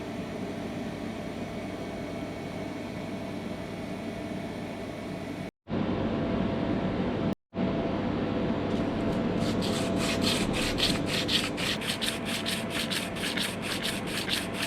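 A hand tool worked back and forth on the metal of a fire pit. It gives a steady scraping at first, then turns into even strokes at about three a second from about nine seconds in. Two short dead silences break the sound midway.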